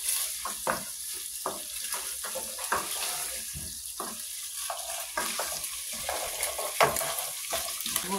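Beef and stew vegetables frying and sizzling in a pot while a spoon stirs and scrapes them, with many short scrapes and one sharper knock of the spoon near the end.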